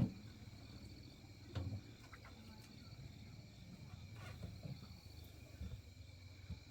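Insects chirping steadily in a high, rapidly pulsing trill, with a few soft knocks near the start, about a second and a half in and about four seconds in.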